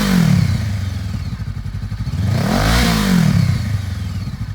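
2014 Honda CB500F's 471 cc parallel-twin engine, breathing through an aftermarket Yoshimura exhaust, idling and blipped twice: the first rev is falling back to idle right at the start, and a second rev rises and drops about two and a half seconds in.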